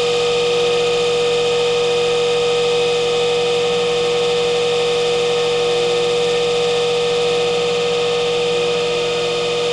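Vintage Sears Kenmore model 135.80030 8-inch single-speed table fan running at its one speed: a steady electric motor hum with a clear pitched tone over the rush of air from the blade.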